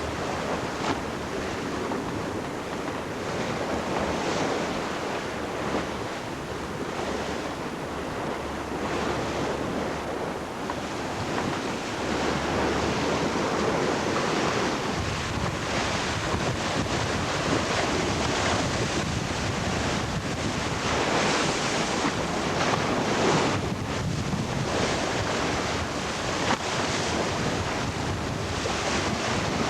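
Sea rushing and splashing past the hull of a sailing yacht going fast, about 15 knots in a fresh breeze, swelling and easing with the waves, with wind buffeting the microphone.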